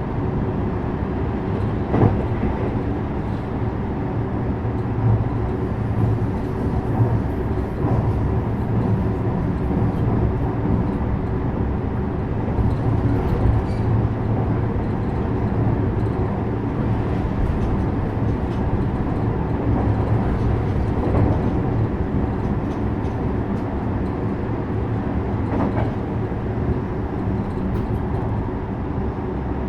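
JR West 321-series electric train running at steady speed: a constant rumble of wheels on rail with a few sharp knocks along the way.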